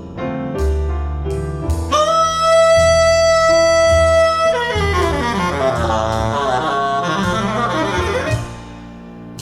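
Jazz ballad recording of tenor saxophone with piano and double bass, played back through ATC SCM 11 bookshelf loudspeakers and heard in the room. The saxophone holds one long high note about two seconds in, then a fast run of notes follows, and the music softens near the end.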